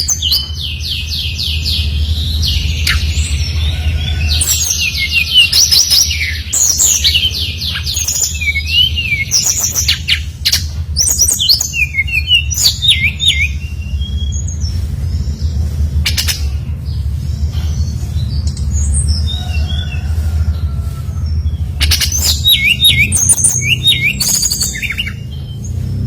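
Brown-chested jungle flycatcher (sikatan rimba dada coklat, SRDC) singing loudly in rapid runs of high trilled and whistled notes, in bursts with short pauses between, over a steady low hum.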